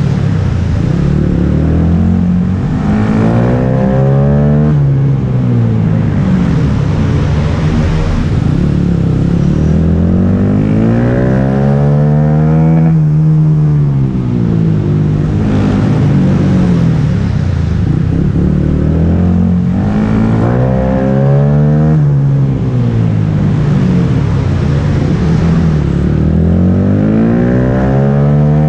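Small motorcycle engine heard from on board, revving up and falling back over and over, about every three to four seconds, as the bike accelerates out of each corner and backs off for the next.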